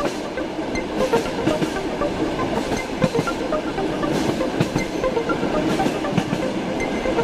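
Lastochka electric train (Siemens Desiro RUS) running at speed: a steady rumble with irregular clicks of the wheels on the track.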